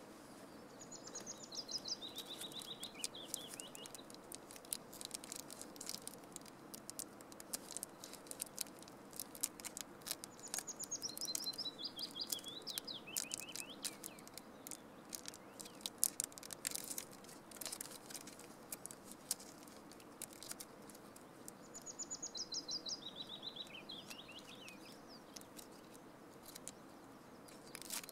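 A songbird sings a short, high trilled phrase that steps downward in pitch, three times about ten seconds apart. Many quick faint clicks and ticks run underneath, thickest in the middle.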